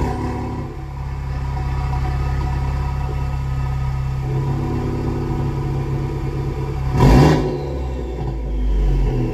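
Ford Focus RS Mk3's 2.3-litre turbocharged four-cylinder, fitted with an MBRP cat-back exhaust and a catless downpipe, settling into a steady idle just after a warm start. About seven seconds in there is one short, loud burst, and the sound swells again near the end.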